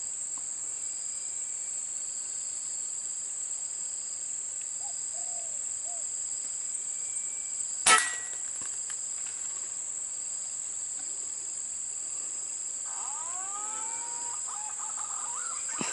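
Steady high-pitched insect drone with a single sharp air-rifle shot about halfway through, the shot that brings down a green pigeon. Bird calls with gliding notes begin near the end.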